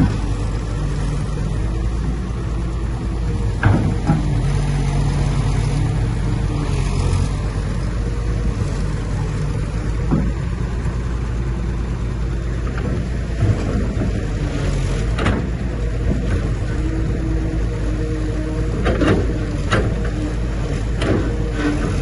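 Diesel engine of heavy earthmoving machinery running steadily, with a few short sharp knocks now and then.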